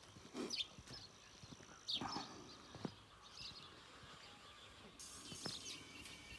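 Faint birds chirping here and there, short high calls a second or so apart, with a few light taps.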